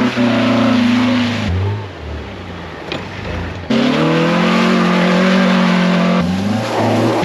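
Car engine running hard at high revs, in stretches that start and stop suddenly, with a quieter rumbling stretch of a couple of seconds in the middle.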